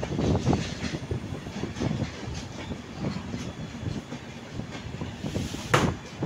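Train wheels clattering over rail joints, heard from a moving passenger coach as it runs alongside another train, with a steady rumble beneath the clacks. One sharp, loud crack comes near the end.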